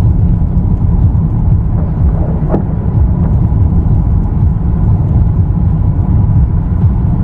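Loud, steady low rumbling noise, with a brief faint higher sound about two and a half seconds in.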